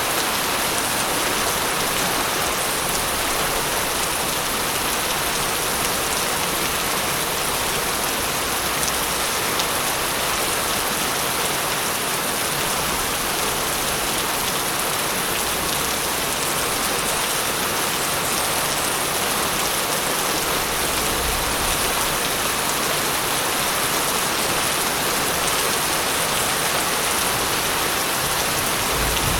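Steady heavy rain falling and pattering on surfaces, an even hiss with no break, and a faint low rumble about three quarters of the way through.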